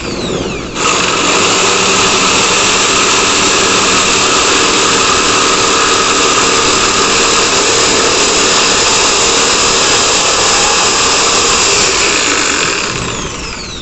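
Lotus 550 W electric jigsaw on speed setting 6 sawing a straight cut through wood with a coarse 10-tooth blade: it starts about a second in, runs steadily, then is switched off near the end and winds down with a falling whine.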